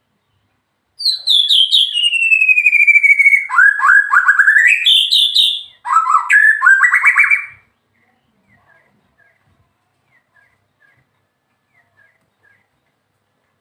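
White-rumped shama (murai batu) singing a loud phrase of clear whistles. It opens with a long falling whistle, then quick rising notes, breaks briefly and bursts into a second run, and is followed by a few faint short chirps.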